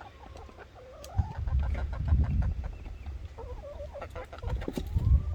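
A flock of chickens clucking, many short calls overlapping, over a low rumble that swells about a second in and again near the end.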